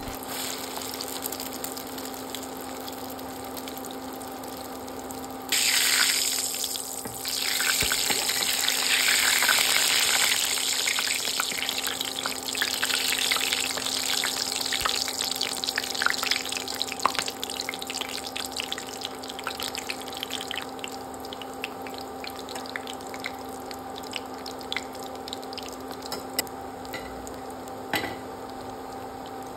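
Chicken-and-potato kababs shallow-frying in hot oil, a steady sizzle with scattered crackling pops. About five seconds in the sizzle turns suddenly much louder, then fades back over the next ten seconds or so. A steady low hum runs underneath.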